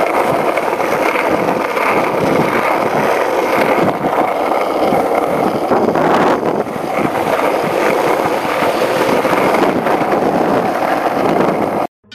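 Skateboard wheels rolling over pavement, a steady coarse rumble with a few small knocks, with wind buffeting the microphone.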